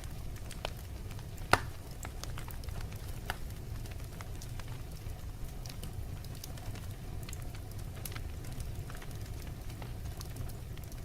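Fire crackling, with scattered sharp pops over a low steady rumble. The loudest pop comes about a second and a half in.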